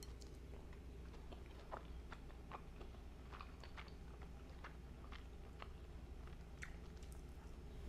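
Faint chewing of a sauce-coated chicken tender, with small irregular clicks from the mouth.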